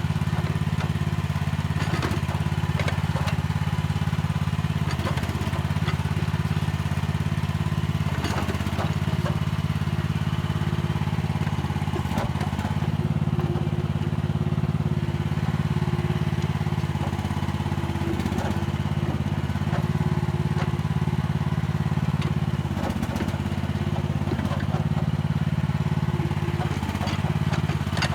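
Mini excavator's diesel engine running steadily under working load, with scattered knocks and scrapes of the bucket working the soil.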